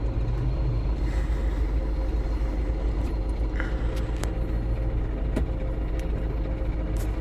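Steady low rumble of a GAZon Next truck's diesel engine and road noise heard inside the cab while driving, with a few faint clicks.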